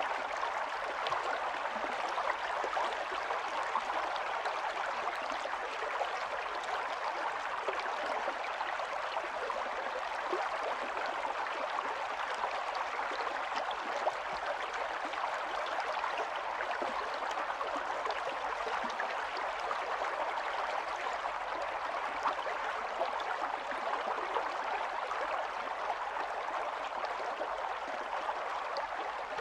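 Small stream of running water, babbling and gurgling steadily with small splashes flickering through.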